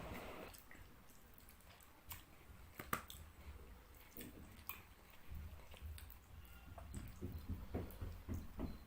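A person eating fish curry and rice close to the microphone: faint chewing with wet, sticky clicks and smacks scattered throughout, growing busier from about five seconds in.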